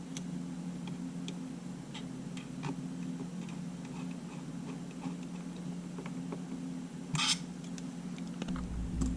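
Scattered small clicks and taps of tools and small camera parts being handled on a workbench, over a steady low hum. There is a short, louder scrape about seven seconds in.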